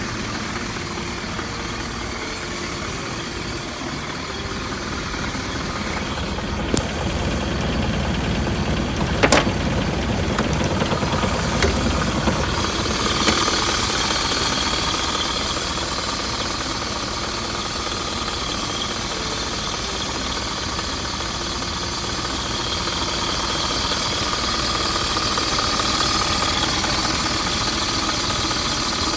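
Isuzu Elf truck engine running steadily at idle, with a few sharp clicks or knocks over the first half.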